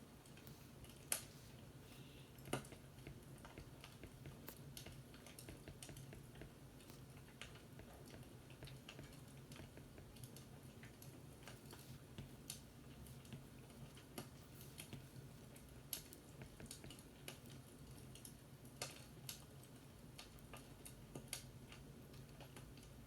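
Fireplace crackling faintly: irregular sharp pops and snaps, a couple of them louder early on, over a steady low hum.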